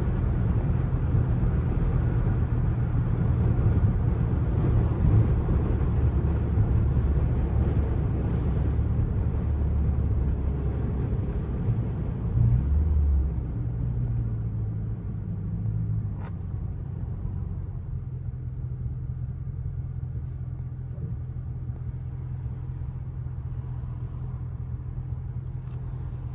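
Straight-piped Chrysler 300C's HEMI V8 exhaust rumbling as the car drives, with a short rise in revs about halfway through. It then settles to a steady idle.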